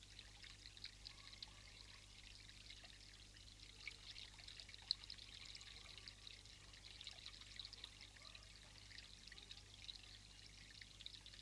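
Faint, steady trickle of running water with many small irregular ticks, and one sharp click about five seconds in.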